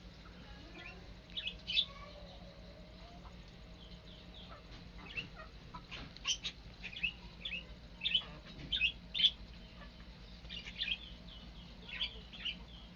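Small cage birds chirping: many short, high chirps come irregularly throughout, over a faint steady low hum.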